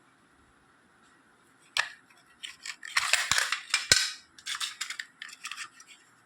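Plastic audio cassette case being handled and opened: a sharp click nearly two seconds in, then a run of clicks and rattles.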